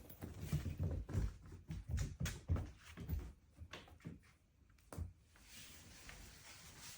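A quick run of irregular thumps and knocks, like objects bumping in a small room, dying down after about three and a half seconds, with one more sharp knock about five seconds in.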